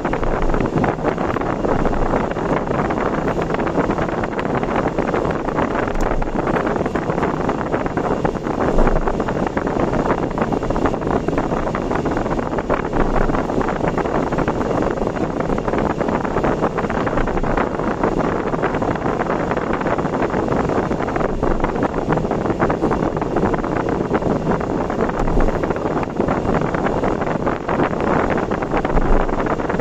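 Steady road and wind noise from a car driving fast on an expressway: an even rush of tyres on the road surface and air past the vehicle, with no change through the stretch.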